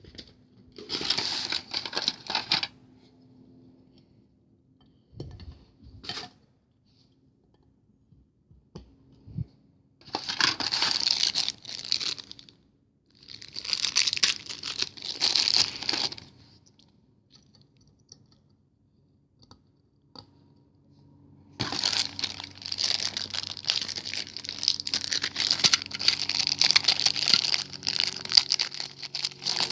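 Packaging being torn open and crinkled by hand, in bursts of rustling: a short burst near the start, two more in the middle, and a long continuous stretch over the last third.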